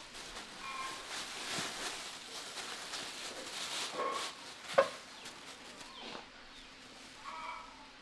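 Chickens clucking now and then over rustling handling noise, with one sharp click a little before five seconds in.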